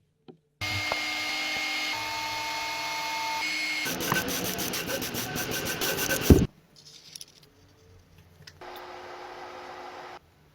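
Workshop tool sounds in several abrupt cuts: about three seconds of steady whirring with a faint whine, then a couple of seconds of fast rasping strokes ending in a heavy thump, and later a quieter stretch of rubbing.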